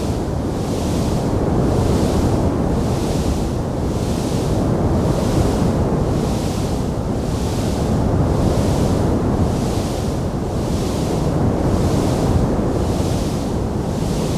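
A fire burning as a steady low rumble, with a hiss that swells and fades about four times every three seconds. There are no distinct crackles or pops.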